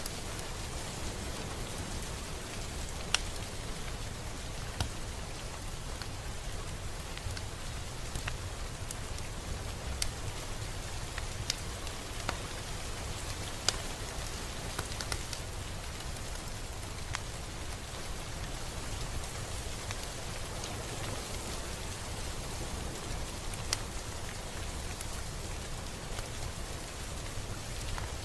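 Steady rain falling, a constant hiss with scattered, irregular sharp taps of single drops striking close by.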